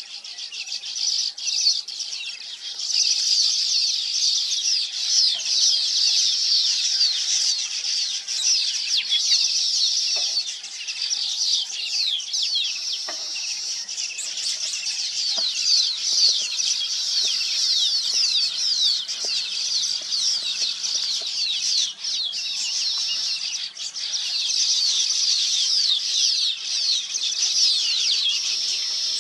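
Many small birds chirping together: a dense, unbroken twitter of overlapping quick, high calls.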